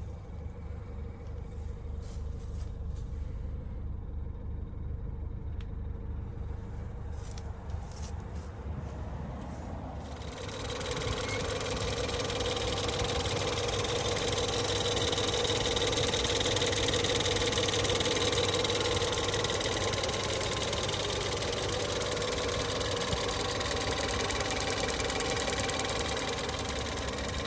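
2011 Volvo V60's engine idling steadily. For the first ten seconds it is a low hum. About ten seconds in it gets louder and fuller, with a steady whine, as heard close up with the bonnet open.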